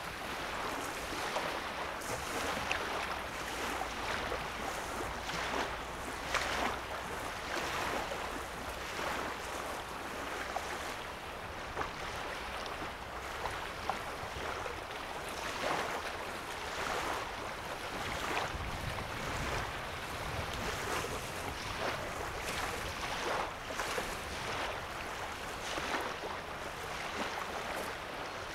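Small waves lapping at a sandy lake shore, each soft wash coming every second or two, over a steady low rumble.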